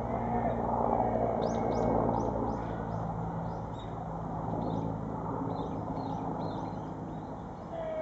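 Quick, high chirping calls of small birds, starting about a second and a half in and repeating in short runs, over a steady low background hum.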